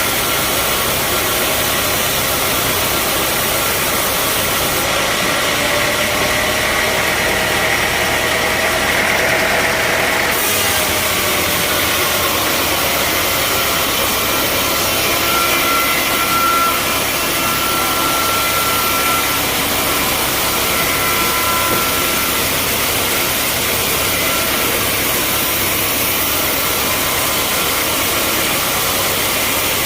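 Band sawmill running steadily: a loud, even machine noise with faint whining tones that come and go, and a slight change in the sound about ten seconds in.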